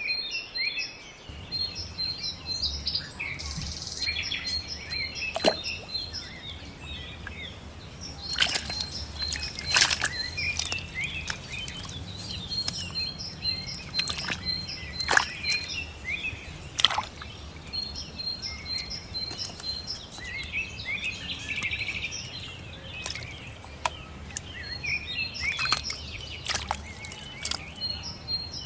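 Small birds chirping in short repeated high notes over a faint low steady hum, with a sharp click or tap now and then.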